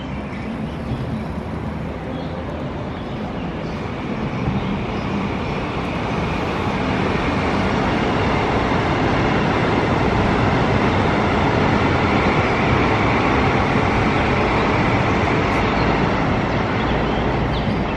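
CR400BF Fuxing Hao high-speed electric train running past on an elevated track just after leaving a station: a steady rush of wheel and running noise that swells from about six seconds in and stays loud to the end.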